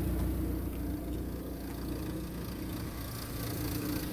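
Honda D14Z6 1.4-litre four-cylinder petrol engine idling steadily.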